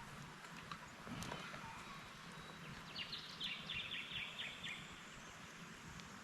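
A bird calling once, a quick run of about ten short, high notes a few seconds in, over a steady faint hiss, with a couple of faint clicks.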